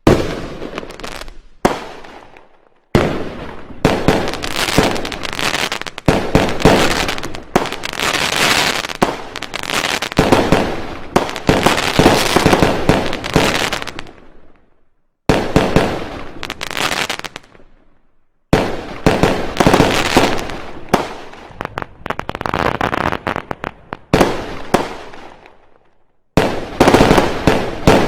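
Fireworks and firecrackers going off in rapid strings of bangs and crackling, in several long runs broken by short, sudden silences.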